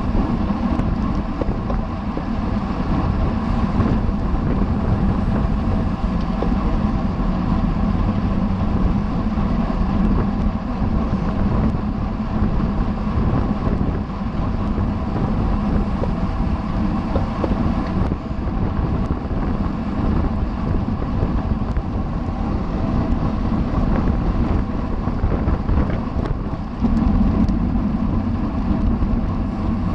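Wind rushing over the microphone of a road bike ridden at race speed, with steady road and tyre rumble and a faint hum underneath.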